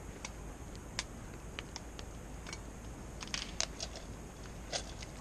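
Popcorn kernels popping in oil in a small pot over a campfire: scattered sharp pops, a few at first and a quick cluster about three seconds in. These are the last pops of a batch that is nearly done.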